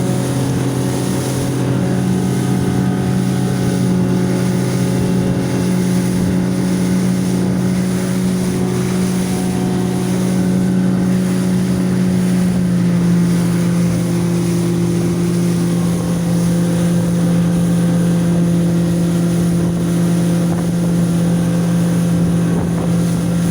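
115-horsepower outboard motor running steadily with the boat under way, its note shifting slightly about halfway through. Wind buffets the microphone.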